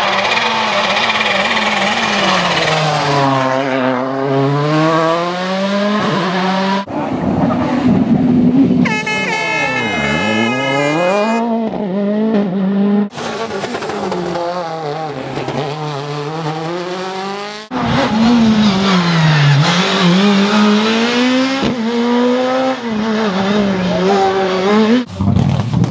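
World Rally Cars' turbocharged 1.6-litre four-cylinder engines passing at speed in a series of short clips, each rising and falling in pitch through gear changes and braking, with some tyre squeal.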